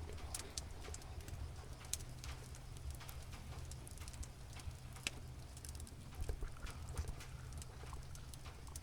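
Domestic cat purring in a steady low rumble, with scattered sharp crackles and pops of a wood fire.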